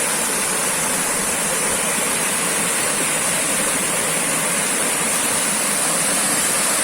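Waterfall water rushing steadily, a loud, even roar of falling water.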